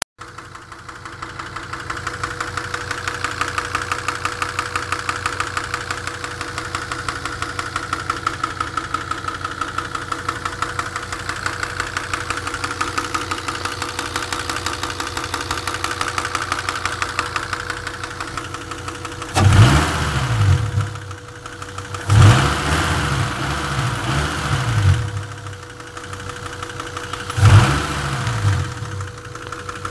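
Engine idling with a fast, regular knock that the owner cannot place. About two-thirds of the way in it is revved in several short blips, rising and falling.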